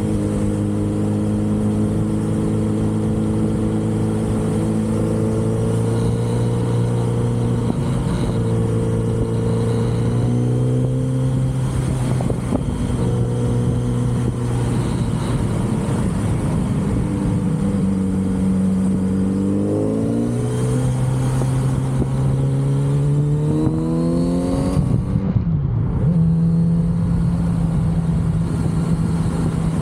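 Kawasaki Z900RS inline-four with its stock exhaust, running under way at a steady note that steps up a couple of times as the rider accelerates. Late on the pitch climbs quickly, breaks off briefly as the gears change, then settles at a higher steady note.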